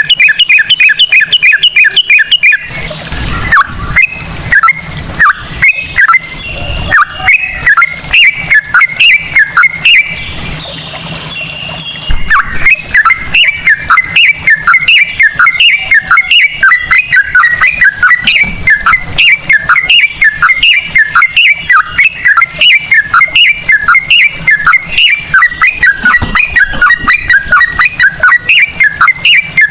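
Yellow-vented bulbul (trucukan) singing loudly in a fast repeated run of chattering notes, about three a second. The run loosens into irregular phrases a few seconds in and picks up its steady rapid pace again about halfway through.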